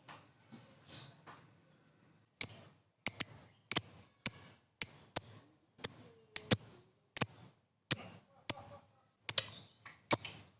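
A lovebird giving a series of short, sharp, high-pitched chirps, roughly two a second, starting about two seconds in after a near-quiet stretch.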